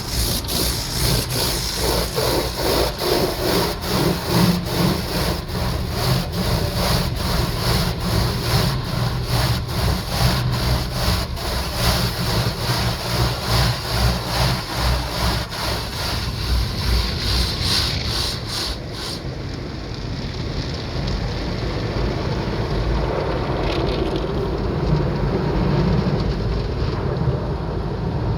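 Automatic car wash machinery heard from inside the car: brushes or cloth strips slapping against the body in a regular beat about twice a second over a steady low rumble. About two-thirds of the way through, the slapping stops and only a softer rumble with spray and hiss remains.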